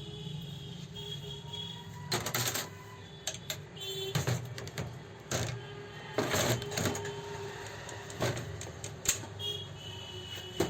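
Irregular metallic clicks and clatter of tools and parts being handled on an old overlock sewing machine, a few sharp knocks every second or two.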